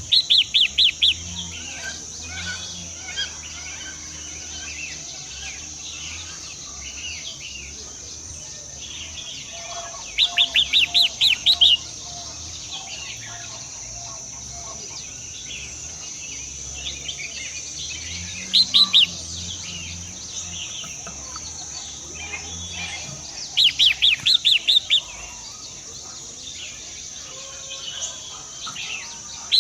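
A bird calling in short bursts of rapid, evenly spaced high notes, five bursts several seconds apart, over a steady high-pitched hiss.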